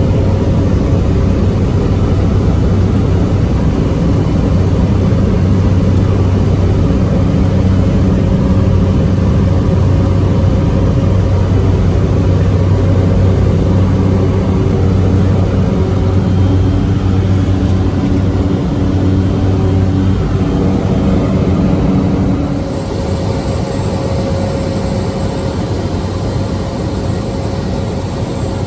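Loud, steady engine drone with a low hum, heard close up; its tone shifts and it drops a little in level about 22 seconds in.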